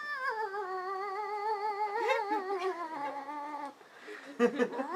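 A cat giving a long, drawn-out, wavering yowl lasting about three and a half seconds, its pitch slowly sinking, that sounds almost like singing. A short, sharper call follows, and then another long yowl starts at the very end.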